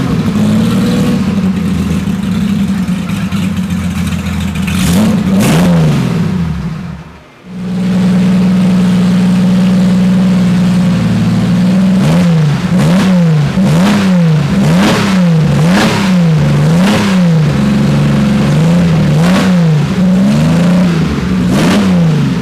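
Porsche 906 race car's engine idling, revved once about five seconds in, dipping briefly near seven seconds, then idling steadily again. From about twelve seconds in it is blipped over and over, roughly once a second, each rev rising and falling back.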